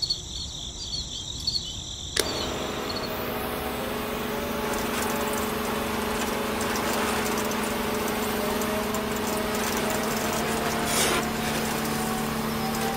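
A small electric motor is switched on with a click about two seconds in and then runs with a steady hum, turning a belt-and-pulley drive to a rotating drum sieve.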